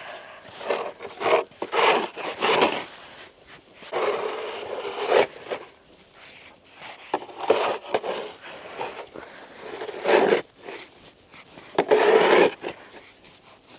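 Crunching and scraping in snow, in a dozen or so irregular bursts, with one longer scrape about four seconds in.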